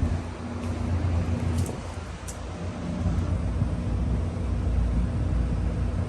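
Outdoor central air-conditioner condensing unit running, a steady low hum from the compressor and condenser fan.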